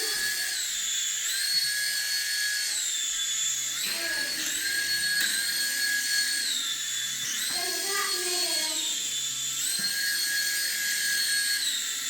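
Toy remote-control helicopter's small electric motor and rotors running with a high whine that steps up and down in pitch every couple of seconds as the throttle changes.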